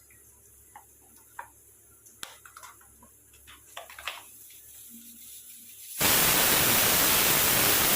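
A few light clinks of a spoon against a container, then about six seconds in a loud, steady hiss of steam starts abruptly: a pressure cooker's whistle venting.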